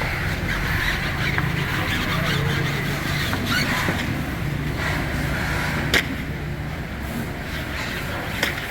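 A machine running with a steady low hum and a hiss over it, broken by a few sharp clicks, the loudest about six seconds in.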